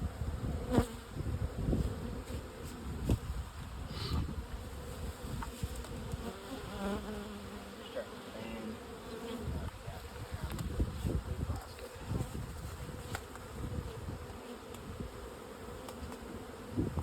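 A mass of honeybees buzzing in a steady hum, with scattered knocks and clicks of handling.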